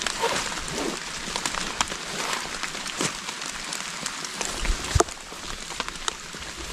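Steady rain falling, with many sharp drops hitting close by and one stronger knock about five seconds in.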